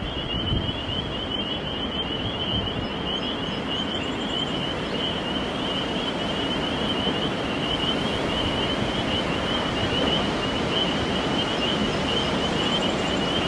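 Steady spring rain falling, an even hiss throughout, with a continuous high, fast-pulsing trill running over it.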